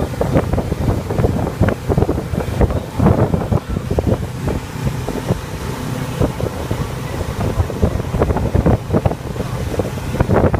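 Wind buffeting the microphone aboard a motorboat under way, with the boat's motor humming steadily underneath.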